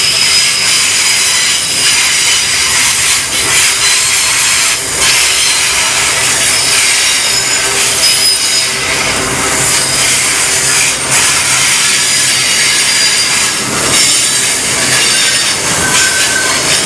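Double-stacked container wagons of a freight train rolling past close by: a loud, steady rush of steel wheels on rail with high-pitched wheel squeal and a few sharp knocks.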